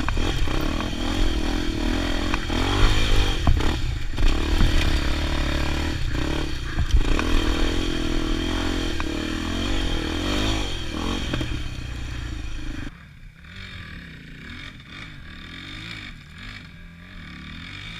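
Motorcycle engine running under throttle, its pitch rising and falling as it revs, with scraping and clattering over it; about 13 seconds in it drops suddenly to a much quieter, lower engine sound.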